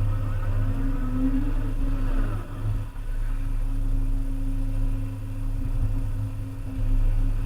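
Diesel engine of a Volvo EC300E excavator running steadily with a constant low drone. In the first couple of seconds a wavering higher whine rises over it, and the sound dips briefly before running on.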